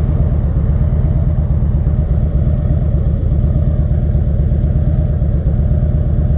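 Harley-Davidson Dyna Switchback's V-twin engine running steadily at low revs, an even low pulsing with no revving.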